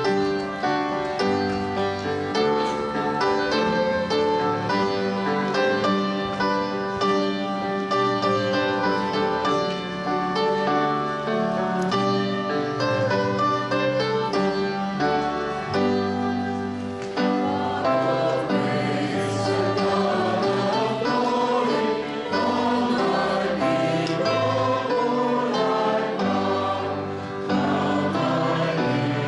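Choir singing with keyboard accompaniment.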